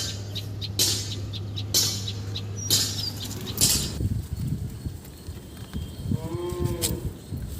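A bird calls once near the end, a short low call that rises and falls. Before it, sharp taps about once a second sound over a low steady hum, stopping about halfway through.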